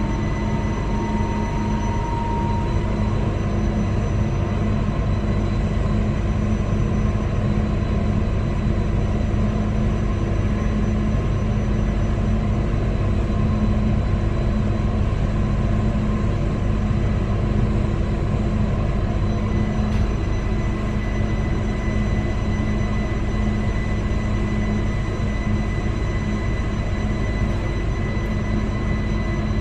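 Newag Impuls 2 electric multiple unit running between stations, heard inside the passenger saloon: steady running noise of the train on the track with a thin steady whine over it. A brief, slightly rising tone sounds at the very start.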